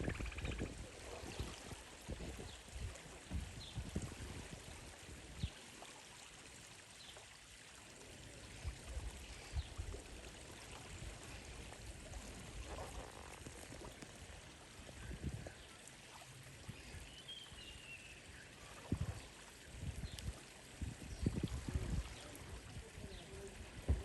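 Steady rush of water, with uneven low thumps of wind on the microphone and a few faint, short, high bird calls.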